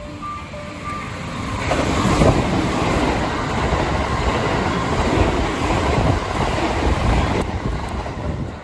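JR West Thunderbird limited express electric train running through the station at speed without stopping. The noise of wheels on rail and rushing air builds over the first two seconds, holds loud while the carriages pass close by, and stops abruptly near the end.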